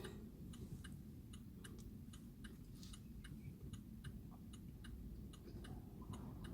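Faint, even ticking, about two to three ticks a second, over a low steady hum.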